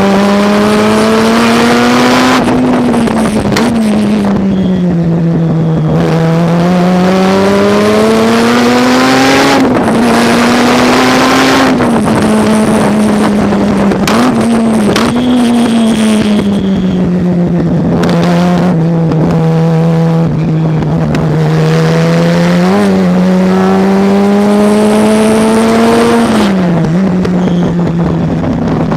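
Race car engine under hard acceleration. Its pitch climbs steadily and then drops sharply several times, as it shifts up or lifts off for corners.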